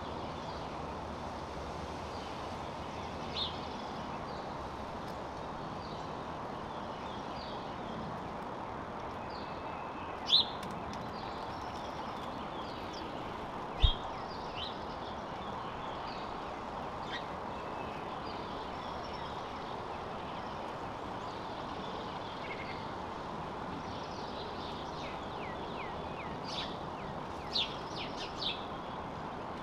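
Small songbirds chirping, short high calls scattered irregularly and busiest near the end, over a steady background rumble. One sharp knock about fourteen seconds in.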